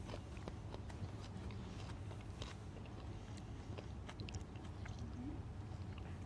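A man chewing a mouthful of smoked meat close to a clip-on microphone: small wet clicks and crunches scattered throughout over a faint steady hum.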